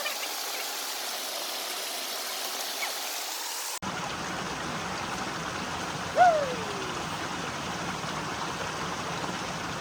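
Forest stream flowing steadily over rocks. About six seconds in, one short, loud call drops in pitch.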